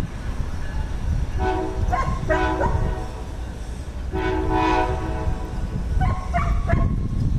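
Diesel freight locomotive air horn, a chord of several steady tones, sounding a couple of short blasts and then a longer one about four seconds in, over the low rumble of the passing train.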